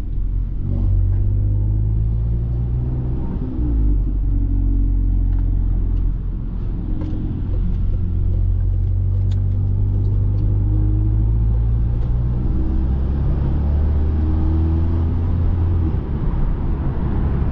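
Tuned 400 bhp Volkswagen Golf R's turbocharged 2.0-litre four-cylinder engine and road noise while driving at a gentle cruise: a steady low drone whose pitch drifts slowly, shifting a few seconds in and again near the end.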